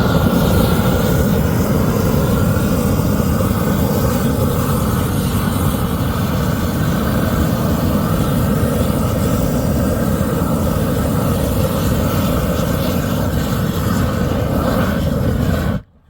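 A vehicle's engine and road noise running loud and steady, cutting off suddenly near the end.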